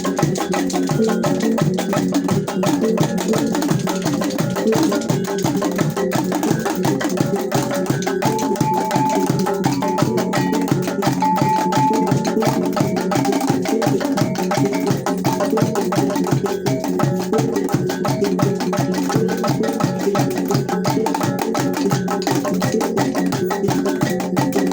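T'boli traditional music played live by an ensemble of master musicians: a fast, steady rhythm of struck, pitched percussion, many notes layered together.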